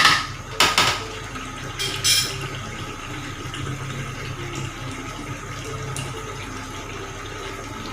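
Water splashing and pouring in a few short bursts in the first two seconds, then a steady low hum.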